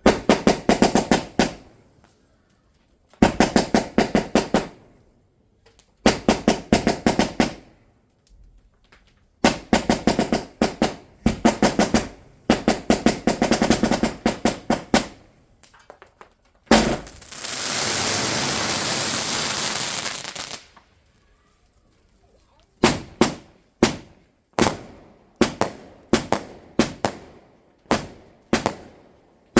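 Firework barrage going off: several rapid strings of cracks and bangs, then a steady hiss lasting about three and a half seconds in the middle, followed by a run of single bangs about two-thirds of a second apart.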